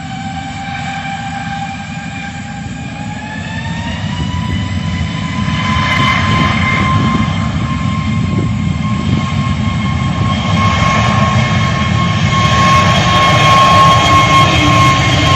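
Jet airliner engines running with a high whine over a low rumble. The whine rises in pitch three to four seconds in, then holds steady while the noise grows gradually louder.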